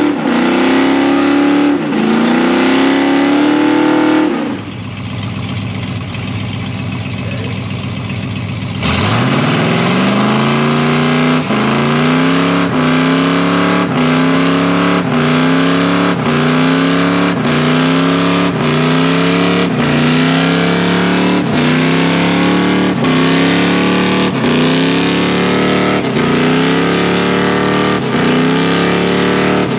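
Car engine revving over and over, its pitch climbing and dropping back about once a second.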